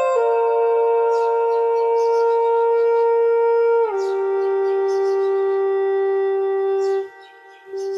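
Flute playing long held notes: one note for about four seconds, then a step down to a lower note held for about three seconds. There is a short break near the end before the low note comes back.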